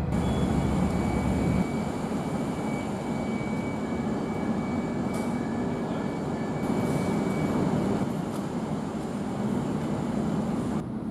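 Steady train noise: a low rumble for the first second and a half, then a lighter steady hiss with a faint high tone.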